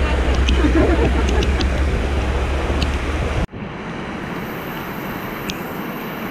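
Heavy rain pouring down in a storm, with wind rumbling on the microphone. About three and a half seconds in the sound cuts to a steadier, quieter rain hiss.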